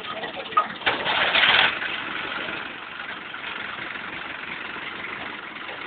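Tractor engine running, with a loud rushing surge lasting under a second about a second in, then settling back to a steady run.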